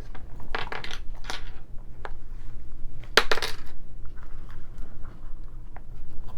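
Small plastic hair accessories and their packaging being handled: a few short bursts of rustling and clicking, the loudest about three seconds in, over a steady low hum.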